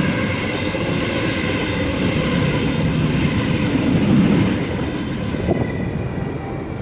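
Sydney Trains A set (Waratah) electric train passing through the station without stopping: loud, steady wheel-on-rail noise with a steady electric whine, easing off slightly near the end.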